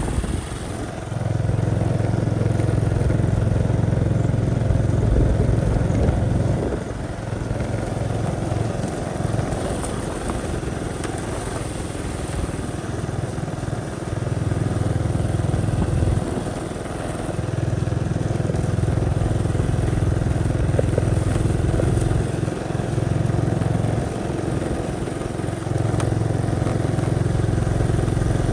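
Motorcycle engine running on the move, its low note swelling and easing in stretches of several seconds.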